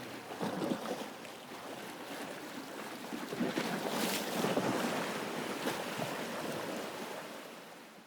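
Water lapping and splashing in irregular surges, with some wind on the microphone, fading out near the end.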